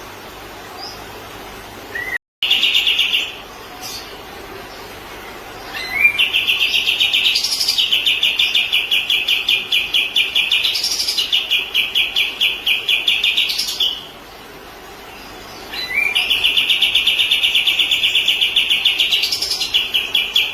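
Kapas tembak songbird singing its fast rattling trill in long bursts. There is a short burst about two seconds in, one lasting about eight seconds, and another near the end, with a higher note rising over the trill now and then.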